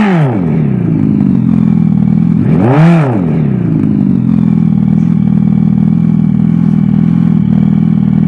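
Simulated motorcycle engine sound played through the Revolt electric bike's built-in speaker: a steady idle-like note, with one rev that rises and falls in pitch about three seconds in.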